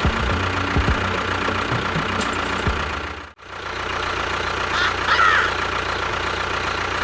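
A small motor running steadily with a constant hum, cutting out for an instant about halfway through and then running on.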